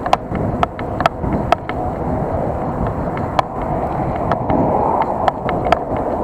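Bicycle rolling along a road, picked up by an SJ4000 action camera: a steady rumble of tyre and wind noise with frequent irregular rattles and clicks as the bike and camera jolt over bumps.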